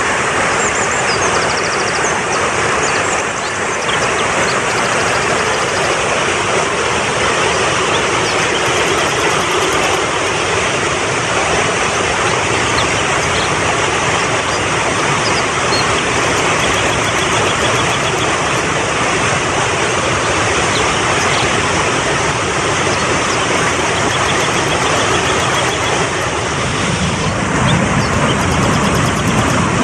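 Fast-flowing mountain stream, a steady dense rush of water, with a deeper surge near the end. Faint high trills run over it.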